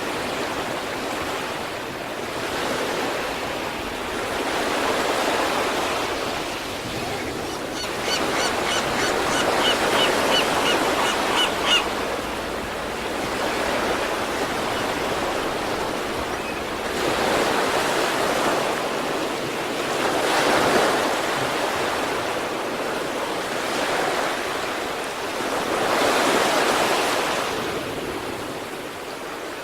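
Sea waves breaking on the shore: a steady wash of surf that swells with each breaker every few seconds. Between about 8 and 12 seconds in, a quick run of high, evenly spaced chirps sounds over the surf.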